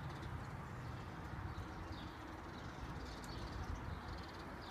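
Steady low background rumble with a few faint, short, high bird chirps scattered through.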